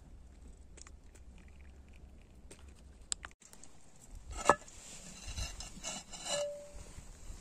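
Scattered light knocks and clatter of things being handled, with one sharp, ringing knock about halfway through and a short clear tone near the end.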